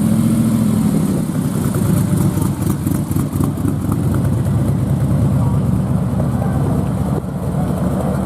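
A car engine running steadily at a loud, rough idle.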